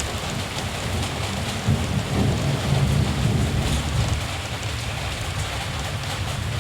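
Steady rain hissing, with a low rumble of distant thunder that swells about two seconds in and eases off a couple of seconds later.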